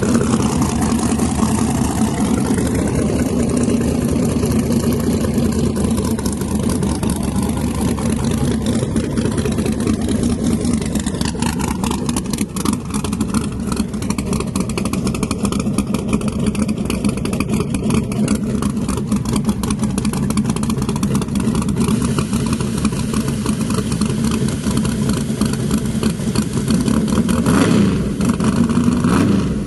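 A drag car's engine running steadily with a deep, even drone, with a brief louder burst near the end.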